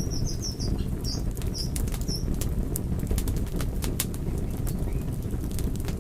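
Wood fire crackling: sharp irregular pops over a steady low rumble of flames. A few short high chirps sound in the first two seconds.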